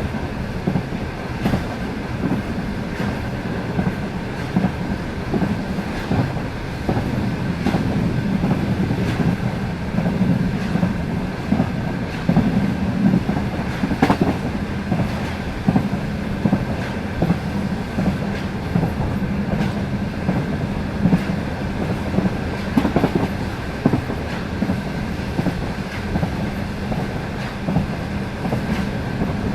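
Passenger train coach wheels running over jointed rail: a steady rumble with sharp clacks at the rail joints, and a faint steady high tone.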